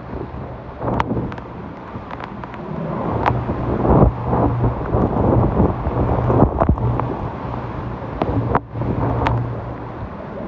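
Hurricane Sally's wind gusting hard and buffeting the microphone, growing louder a few seconds in. Several sharp knocks sound through it, with a steady low hum underneath.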